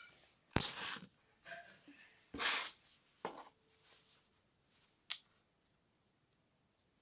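Small wooden sticks being handled and set down: a few brief knocks and rustles, the loudest about half a second and two and a half seconds in.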